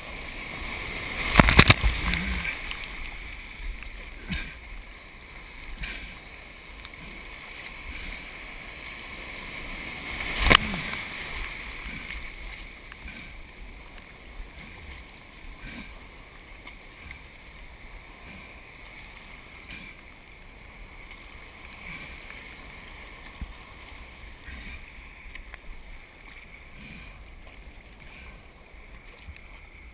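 Water sloshing and splashing around a surf kayak as it is paddled, with smaller splashes every couple of seconds. Two loud splashes stand out, about one and a half seconds in and about ten and a half seconds in.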